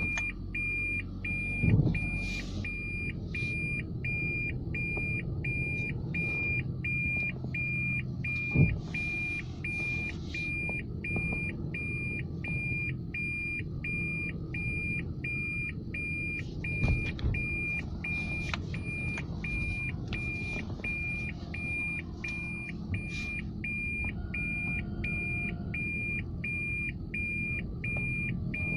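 A car's warning chime beeping over and over at an even pace with one high tone, over the low hum of the car's interior. There are a couple of short thumps, about two seconds in and again near nine seconds.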